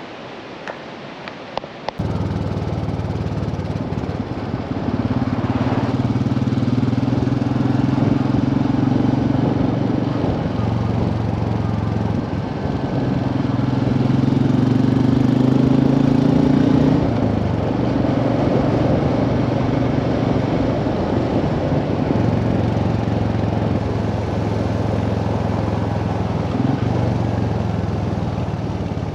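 Royal Enfield motorcycle engine, which comes in abruptly about two seconds in and then runs loud and steady, its pitch shifting several times as the revs change while the bike is ridden.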